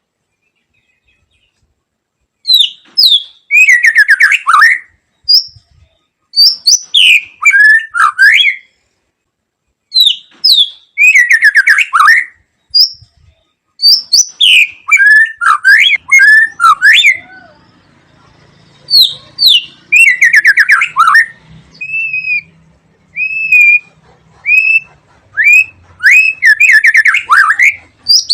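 White-rumped shama (murai batu) singing: loud phrases of varied whistles and rapid trills, repeated in bursts with short pauses, starting about two seconds in.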